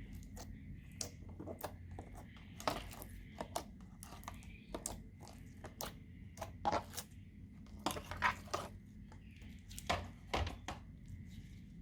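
Slime being worked by hand, giving irregular clicks, pops and crackles, with a faint steady hum underneath.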